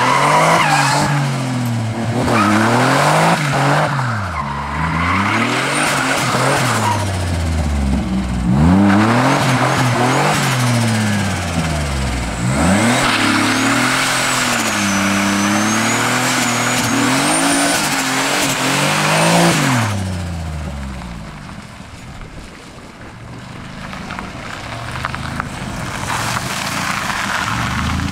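Turbocharged 2.9-litre Ford V6 in a Ford Sierra revving up and down over and over as the car drifts in circles, with the tyres squealing and spinning. About twenty seconds in the revs drop away and the engine runs quieter, then picks up again near the end.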